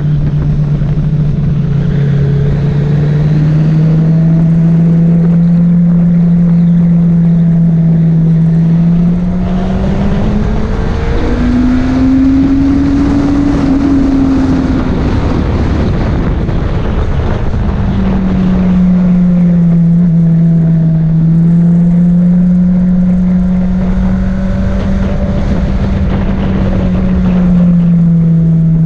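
Honda CBR600RR inline-four sport bike engine running at speed on track, heard from onboard; the engine note holds steady, climbs in pitch about ten seconds in, and is then largely covered by loud wind rush on the microphone for several seconds before it comes through again.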